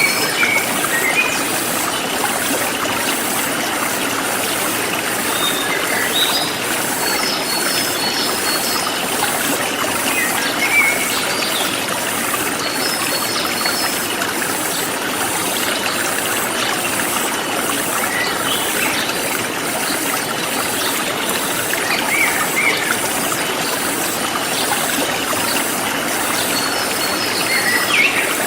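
Forest stream flowing steadily, with short bird chirps and trills now and then and a high insect call pulsing about twice a second.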